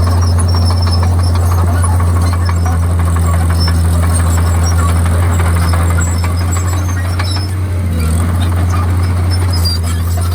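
Komatsu D51PX crawler bulldozer's diesel engine running steadily with a constant low drone, with scattered short high squeaks over it.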